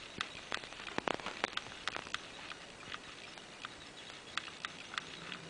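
A cat's paws and claws scratching and clicking lightly and irregularly as it shifts about on the toilet.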